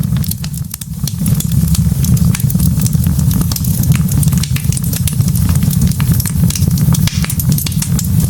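Wood log fire burning, with frequent sharp crackles and pops over a steady low rumble.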